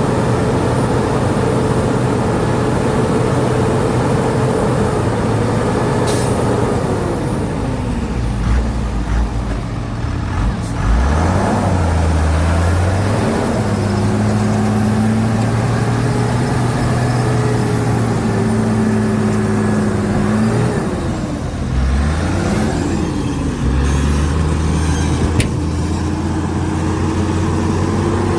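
Shantui DH17C2 bulldozer's diesel engine running steadily under load. Its note sags and picks back up twice, about a third of the way in and again past two-thirds, as the load changes.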